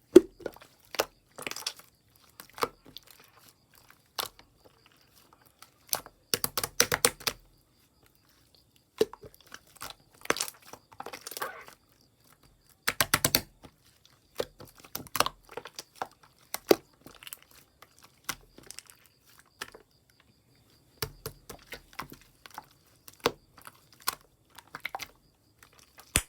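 Close-up handling noise: bursts of rapid clicks and crinkling, with short quiet pauses between them.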